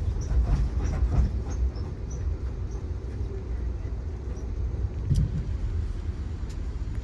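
Steady low rumble of a moving passenger train heard from on board, with light clicks and rattles in the first couple of seconds and a single knock about five seconds in.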